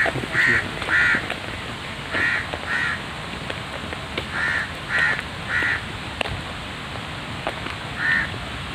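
A bird calling with short harsh calls, in bunches of two or three about half a second apart, nine calls in all.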